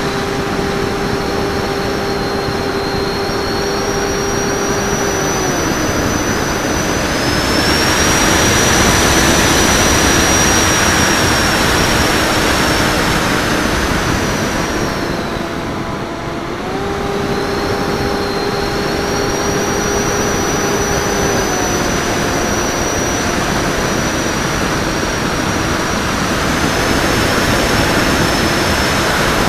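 The electric motor and propeller of a HobbyKing Raptor FPV foam RC plane drone steadily, with wind rushing over the wingtip microphone and a thin high whine above. The drone's pitch steps down about six seconds in, comes back up around the middle, and steps down again a few seconds later, following the throttle.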